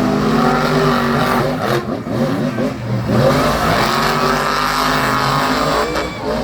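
Monster truck engine revving hard, its pitch rising and falling repeatedly.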